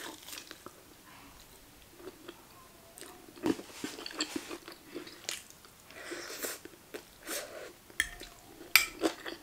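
Close-up eating sounds: biting into a piece of glazed Chinese pork and chewing it, in irregular bouts of mouth noise. A couple of sharp clicks come near the end.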